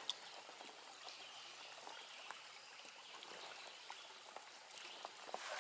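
Shallow creek water trickling faintly and steadily, with a few small scattered clicks.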